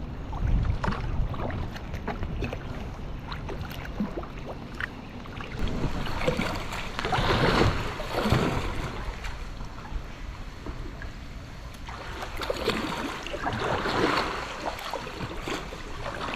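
Kayak paddling on a river: paddle blades dipping and splashing in the water, swelling twice, with a low rumble of wind on the microphone near the start.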